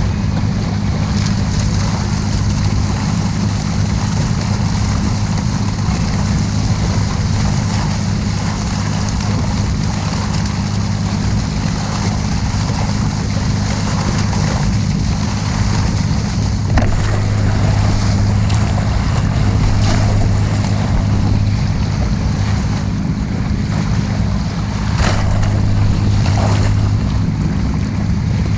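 Motorboat engine running with a steady hum, over continuous rushing water and wind buffeting the microphone, with a few short splashes or knocks.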